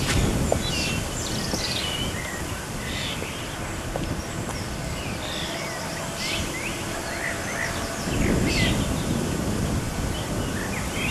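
Small birds chirping and singing in short repeated calls over outdoor background noise, with wind rumbling on the microphone, strongest about eight seconds in.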